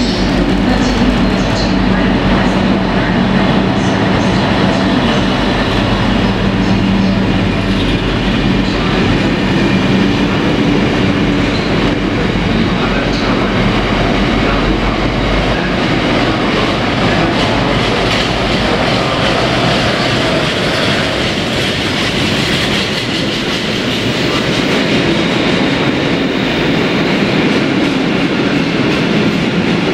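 Diesel train running past on the line, loud and continuous. A steady low engine note is heard for about the first half, then gives way to the rolling of wheels on the rails.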